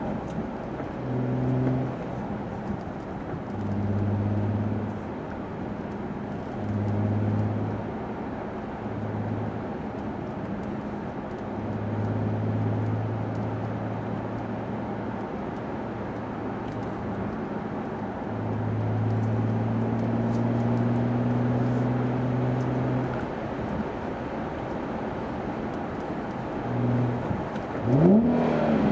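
Infiniti G37's 3.7-litre V6 heard inside the cabin with the windows up, through a Tanabe Medallion Touring exhaust with an Ichiba Y-pipe. It runs as a low, clean rumble while cruising, swelling and easing several times, then revs quickly near the end, rising in pitch up to about 5,000 rpm.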